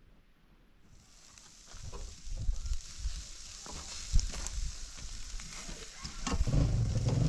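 Food sizzling as it fries, with a steady high hiss and scattered knocks and scrapes of stirring, getting louder near the end.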